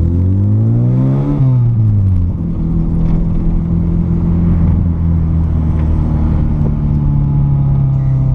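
VW Golf Mk3 engine and exhaust, run without the intermediate muffler and catalytic converter and with a sport rear muffler: the revs climb for about a second and a half, drop back, then hold steady.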